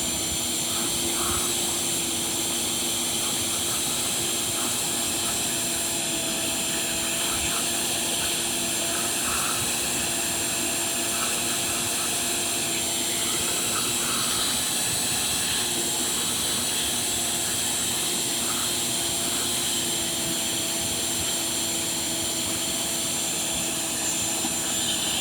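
Vacuum cleaner running steadily, its motor giving a constant whine over the rush of suction.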